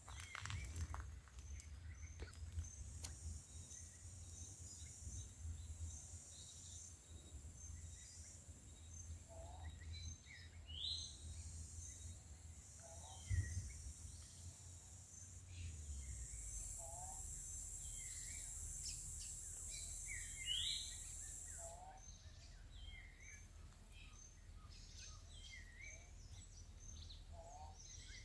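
Rural outdoor ambience: scattered short bird calls and chirps, a few sharp rising ones, over a steady high-pitched insect drone, with a low rumble underneath that eases after about 16 seconds.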